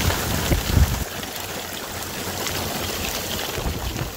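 Heavy rain pouring down onto a paved road and field, a dense steady hiss, with wind gusts buffeting the microphone, strongest in the first second.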